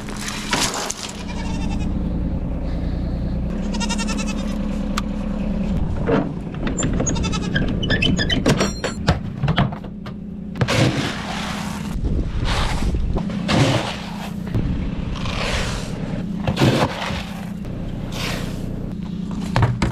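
Goats bleating, several drawn-out calls in the first half, over steady wind noise, with a run of short rushing bursts in the second half.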